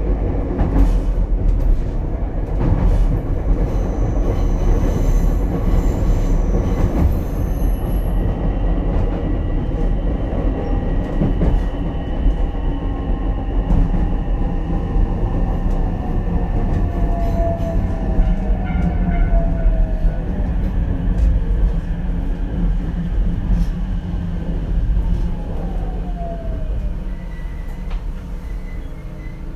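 Ichibata Electric Railway 7000-series electric railcar running, heard from inside the car: heavy wheel and track rumble with the motor's whine gliding down in pitch as the train slows. The rumble eases off near the end.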